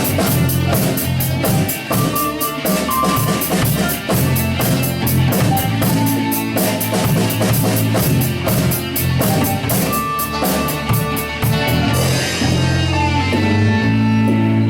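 Rock band playing live, drum kit with cymbals and guitars, no singing. About twelve seconds in the drums and cymbals drop out, leaving the guitars holding steady notes.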